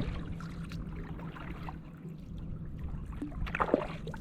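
Kayak paddle dipping in calm water, with water trickling off the blade and a few small splashes, the loudest about three and a half seconds in.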